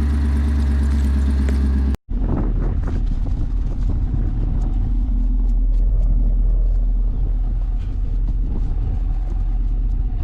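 Chevrolet Camaro's LT1 V8 idling shortly after a cold start, a steady engine note. About two seconds in, the sound cuts out for an instant and resumes as a rougher low rumble with light scattered clicks.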